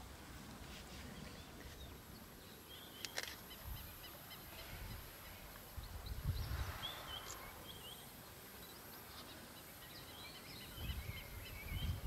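Faint natural outdoor ambience with scattered short, high bird chirps and calls in several clusters, and a single sharp click about three seconds in.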